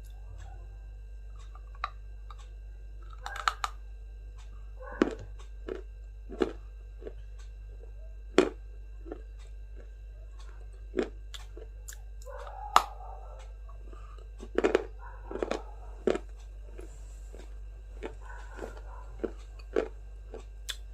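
A person chewing and biting crunchy food close to the microphone: short, sharp, irregular crunches roughly once a second, some in quick pairs, with pauses between, over a steady low hum.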